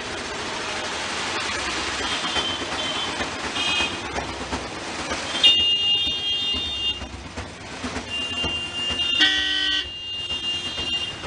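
Busy street traffic with vehicle horns honking over and over, several high steady beeps held up to a couple of seconds. About nine seconds in a lower, fuller horn sounds briefly.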